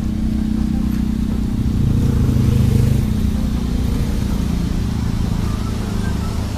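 A car engine running, a steady low hum that grows louder for about a second, some two seconds in.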